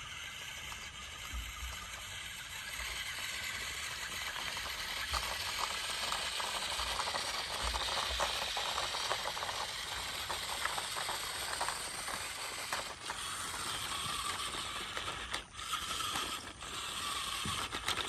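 A small geared toy motor whirring, with rapid plastic clicking and rattling.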